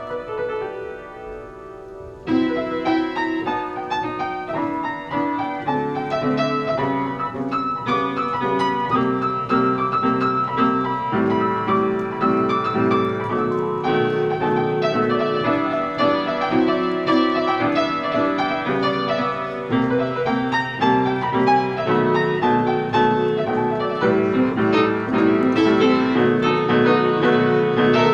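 Solo piano playing an interlude, softly for the first couple of seconds, then louder with full chords.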